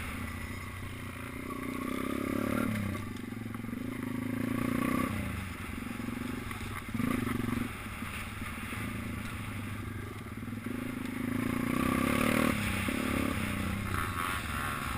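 Minibike's small engine running under throttle, its pitch rising and falling, with several sharp drops and pick-ups as the throttle is shut and reopened.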